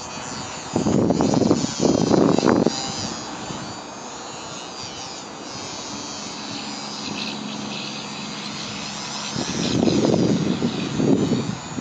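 Electric motor and propeller of a ParkZone Sukhoi SU-26 XP RC plane whining in flight, the pitch rising and falling as it manoeuvres and passes. Strong gusts of wind blast the microphone about a second in and again near the end.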